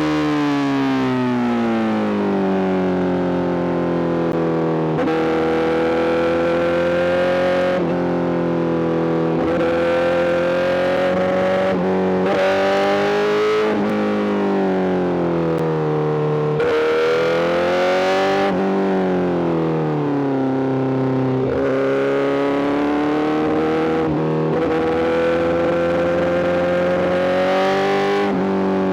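Honda CBR1000RR-R SP inline-four engine through a full Arrow GP exhaust, under way with its pitch rising and falling repeatedly as the throttle opens and closes. It starts with a long drop in revs, then climbs and falls again several times.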